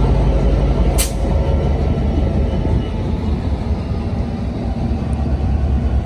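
Diesel train rumbling steadily, with one brief sharp hiss of air about a second in.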